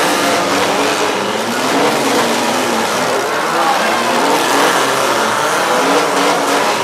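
Engines of several 4- and 6-cylinder demolition derby cars running and revving together in a loud, continuous din, their pitch rising and falling.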